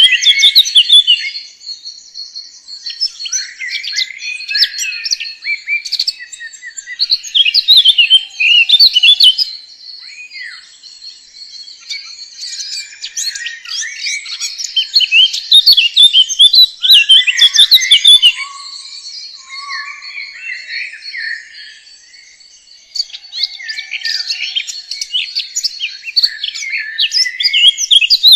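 Songbirds singing: dense runs of quick chirps and trills from several birds, with quieter spells about ten seconds in and again a little after twenty seconds.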